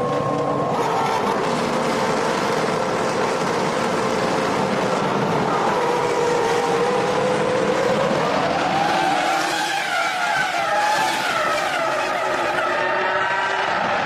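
Several 2003 Formula One cars' V10 engines running at high revs at once, each at its own pitch. Less than a second in, the sound brightens suddenly. From about six seconds in, the engine notes climb together as the cars accelerate.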